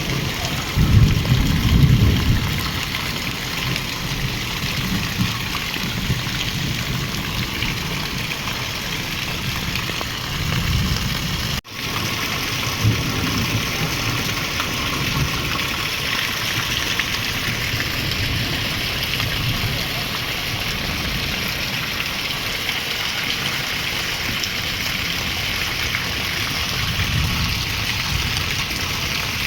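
Steady heavy rain falling, an even hiss, with a low rumble about a second in. The sound drops out for an instant near the middle, then the rain continues.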